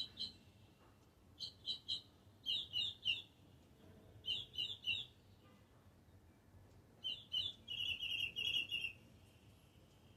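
A songbird singing: short phrases of three or four quick, high chirps repeated several times, with a longer rapid trill near the end.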